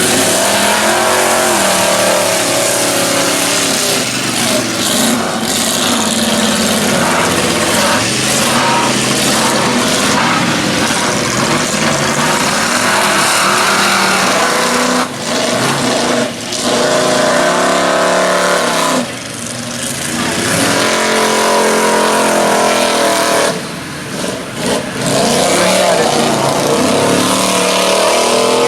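Chevy mud truck engines running hard at full throttle, their pitch climbing and falling as the drivers work the throttle. There are several brief drops in the second half where the throttle is lifted.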